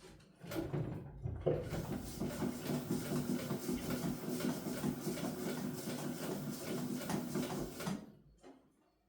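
Sewing machine stitching at a steady fast rate for about eight seconds, then stopping abruptly.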